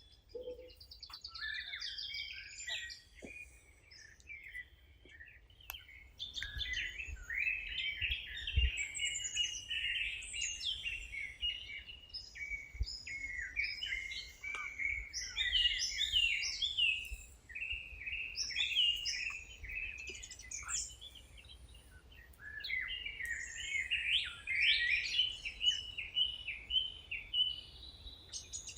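Several songbirds chirping and trilling in quick, overlapping song, sparse at first and dense from about six seconds in, over a faint low rumble.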